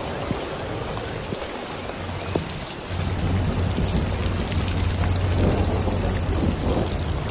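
Heavy rain pouring and splashing onto wet, flooded paving, with scattered drop ticks. A low rumble comes in about three seconds in and stays, making the whole sound a little louder.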